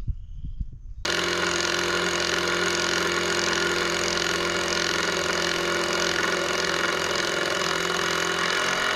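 An engine running steadily at an even speed; it comes in suddenly about a second in.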